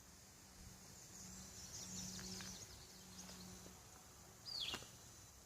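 Faint woodland birdsong: soft high twittering through the middle, then one louder whistled note sliding downward about four and a half seconds in. A faint low hum sounds under the twittering.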